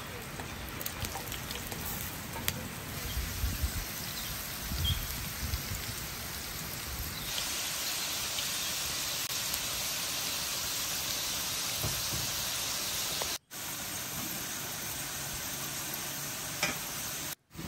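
Potato sticks frying in hot oil on a large iron griddle pan over a wood fire: a steady sizzle, with a few low knocks early on as they land, growing louder and brighter about seven seconds in. The sound cuts out briefly twice near the end.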